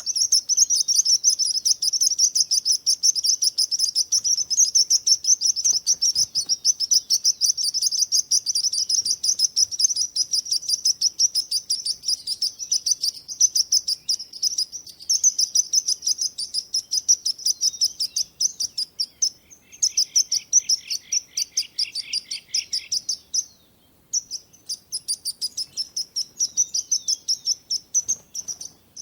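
Songbirds chirping: a dense, rapid stream of high-pitched chirps. About two-thirds of the way through, a lower-pitched series of chirps joins for a few seconds, and there is a brief break just after.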